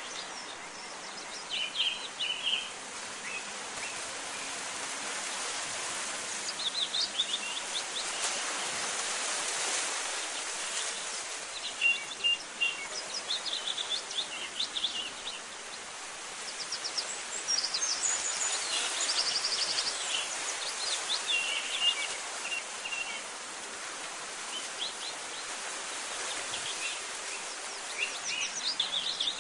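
Several birds chirping in short scattered phrases, with a quick trill about two-thirds of the way through, over a steady rushing background hiss.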